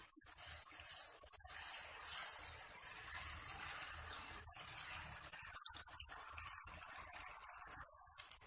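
Chopped onions frying in hot cooking oil in a pan, a steady sizzle broken by a few brief gaps, as they are lightly browned.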